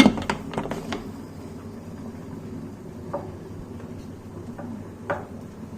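Metal clicks and knocks in the first second as a pressure cooker lid is put on and locked, followed by a steady low kitchen hum with a couple of faint clicks.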